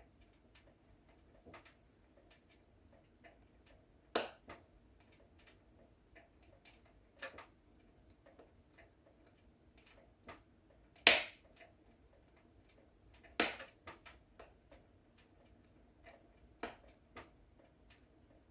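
Wood fire in a fireplace crackling, with sparse, irregular pops and snaps. Three louder snaps stand out, about four seconds in, about eleven seconds in (the loudest) and just after thirteen seconds.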